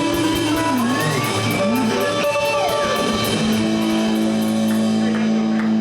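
Live blues band playing an instrumental passage: electric guitar with bent, sliding notes over drums, cymbals and bass.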